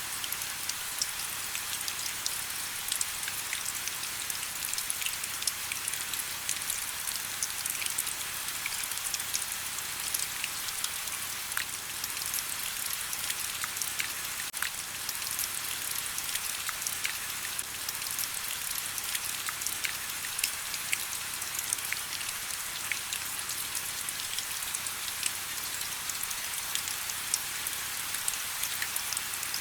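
Steady rain, a constant hiss with many small drop ticks.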